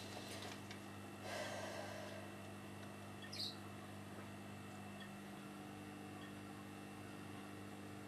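One short, high chirp from a small bird at a winter feeder, about three and a half seconds in, over a faint steady hum, with a soft rustle a little over a second in.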